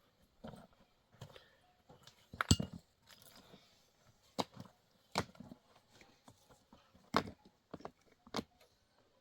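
Irregular sharp knocks and clicks, roughly one a second, the loudest about two and a half seconds in.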